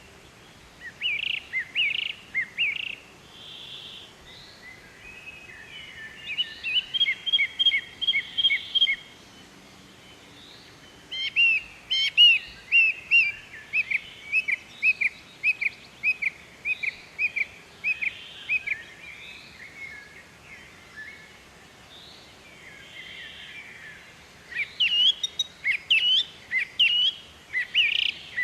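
Small bird chirping: four bouts of rapid, high-pitched chirps separated by pauses of a few seconds.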